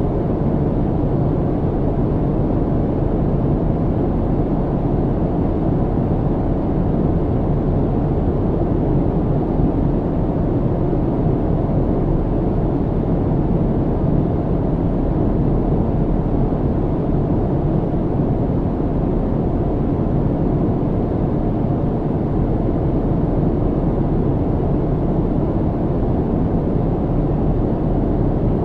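Airplane cabin noise in flight: a steady, even low rumble, strongest in the low range and fading above, without any change.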